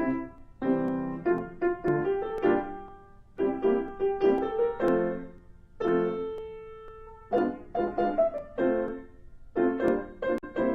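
Piano music: phrases of chords struck and left to ring, with short pauses between phrases.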